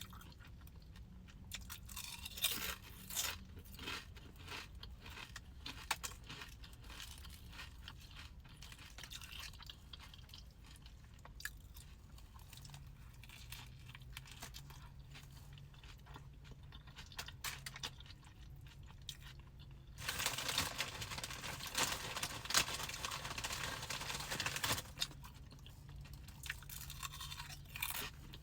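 A person chewing and eating close to the microphone: soft wet mouth sounds and crunching bites, with a louder, noisier stretch lasting several seconds about twenty seconds in.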